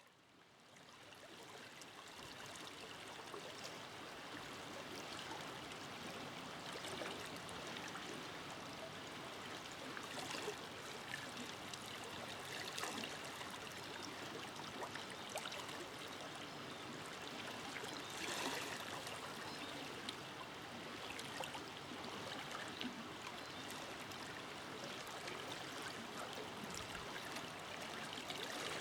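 A forest river flowing over stones, a steady rush of water with small splashes and gurgles. It fades in over the first couple of seconds.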